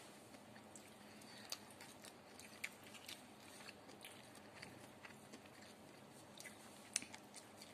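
A person chewing dried anchovies (dilis) up close, faint, with irregular small crunches and mouth clicks. The sharpest click comes about seven seconds in.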